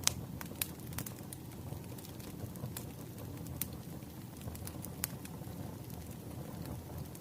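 Wood fire crackling: a steady low rumble of burning logs with irregular sharp pops and snaps, the loudest pop right at the start.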